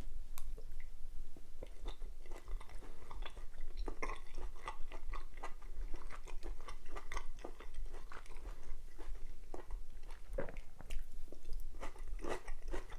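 A person chewing a mouthful of kung pao chicken with crunchy peanuts close to the microphone, with many small irregular crunches.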